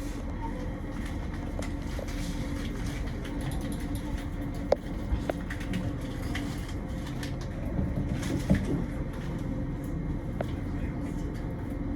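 Steady low rumble of a train heard from inside the carriage as it runs along the rails, with a few sharp clicks and knocks about halfway through.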